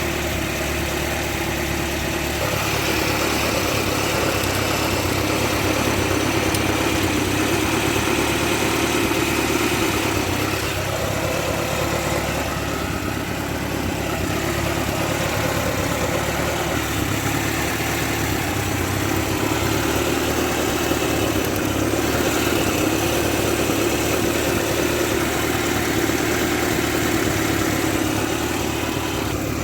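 Engine of a VAZ 2106 car idling steadily.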